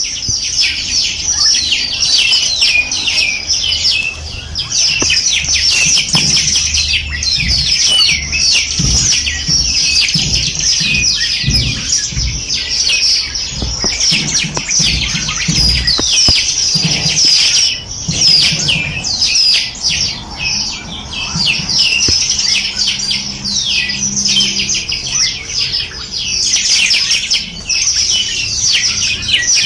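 A dense chorus of many small songbirds chirping and trilling at once, with rapid high notes overlapping without pause.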